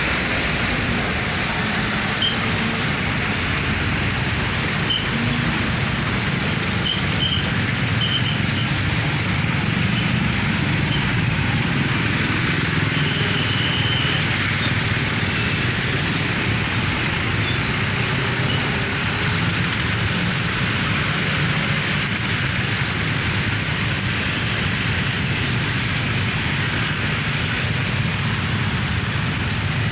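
Dense road traffic passing steadily: the engine rumble and tyre noise of buses, trucks and cars, with a few short high tones in the first half.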